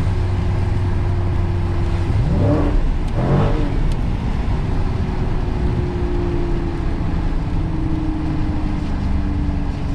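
Dodge Challenger's 392 HEMI 6.4-litre V8 running under way. The revs climb sharply twice, about two and three seconds in, then it settles into a steady drone as the pitch eases slowly down.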